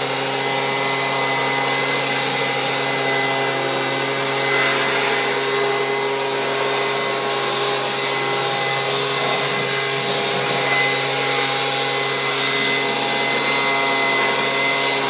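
Leaf blower running steadily at full blast, a constant motor whine over a rushing hiss of air, as it blows water off a washed truck.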